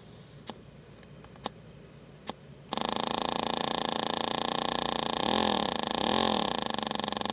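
A few light clicks, then nearly three seconds in a paper air engine starts running on compressed air with a fast, buzzing rattle of rapid strokes. Twice its pitch rises and falls back as it speeds up and slows.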